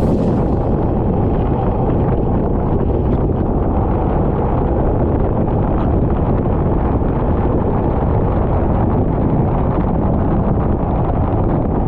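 A moving racing kart heard onboard: steady wind buffeting on the microphone over the kart's engine running.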